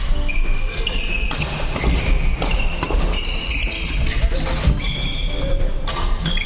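Badminton doubles rally: sharp racquet hits on the shuttlecock and footfalls, with short high sneaker squeaks on the court floor scattered through.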